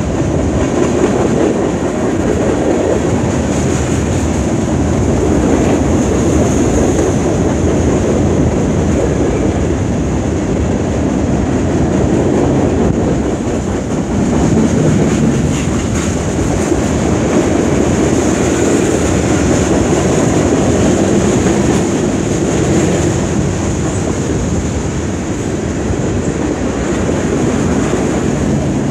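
A mixed freight train's cars rolling past on the rails: a steady, unbroken rumble of steel wheels on track.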